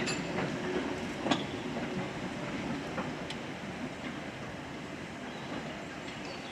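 Railway train running on the track, a steady rumble with a few sharp irregular clicks from the wheels over the rail joints, the loudest about a second in, easing slightly later on.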